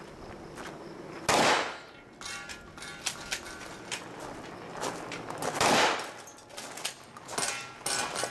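Two shotgun shots about four seconds apart, each with a ringing tail, with lighter clanks and clicks in between.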